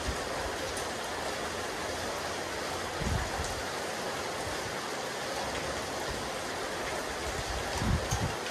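Steady rain falling on a rooftop terrace, an even hiss of drops, with two short low thumps, one about three seconds in and a louder one near the end.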